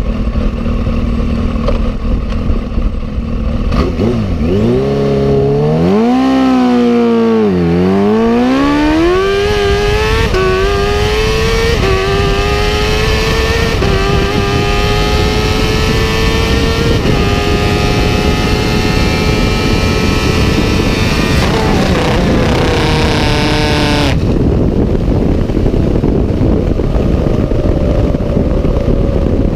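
Kawasaki H2 motorcycle's supercharged inline-four accelerating hard under heavy wind noise. Two quick dips and climbs in pitch come early, then a long, slowly rising pull at high speed. About three quarters of the way through, the engine note falters and cuts out abruptly as the engine lets go, leaving only wind rush.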